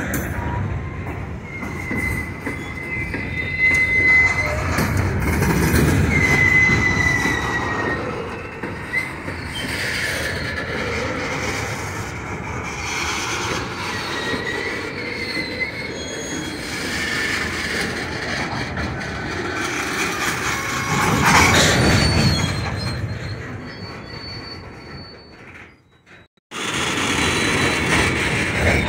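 Open-top hopper cars of an iron ore train rolling past on a curve. Steady rumble and clatter of steel wheels on rail, with high-pitched wheel squeals coming and going as flanges bind on the curve. Near the end the sound cuts out abruptly for under a second, then the rolling noise resumes.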